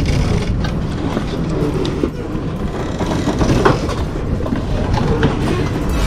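A steady low rumble of wind and handling noise on the camera microphone, with scattered clicks and knocks.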